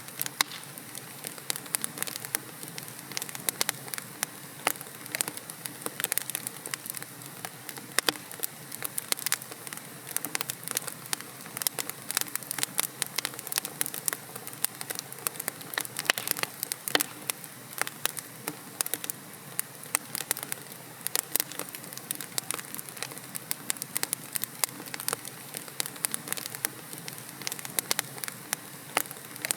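Wood logs burning in a fireplace, with a steady hiss and dense, irregular crackles and pops.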